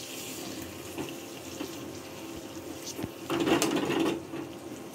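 Fish roe and onion-spice masala sizzling in hot mustard oil while a steel spatula stirs and scrapes through it in the pan, with a louder stretch of stirring and sizzling between three and four seconds in.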